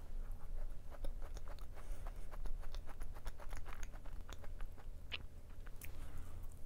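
A person biting and chewing a plain yogurt macaron: many quick, small crunches and clicks of the crisp shell, with a fresh bite near the end.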